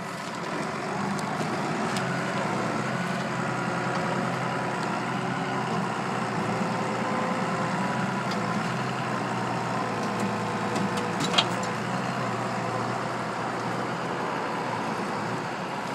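Truck engine running steadily, with a brief sharp click about eleven seconds in.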